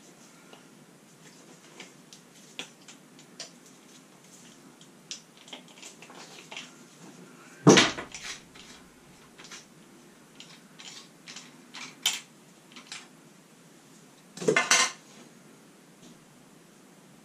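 Metal tools and parts clinking and clattering as they are handled, with scattered small clicks and two louder clatters, one about 8 seconds in and one near 15 seconds.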